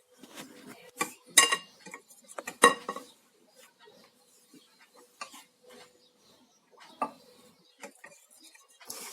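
A kitchen utensil clinking and knocking against a bowl of cake batter as flour is worked in: two loud ringing clinks about one and a half and nearly three seconds in, then lighter scattered taps.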